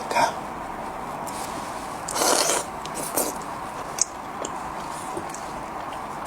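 Close-up eating sounds of a person biting into and chewing monkfish fins: a few short noisy bursts, the longest about two seconds in, and scattered small clicks.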